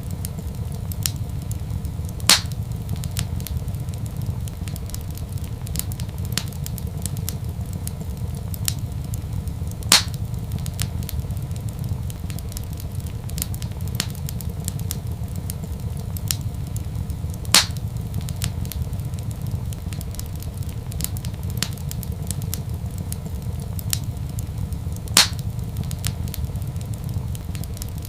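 Wood fire crackling in a fireplace over a steady low rumble, with many small ticks and four loud pops at even intervals of about seven and a half seconds.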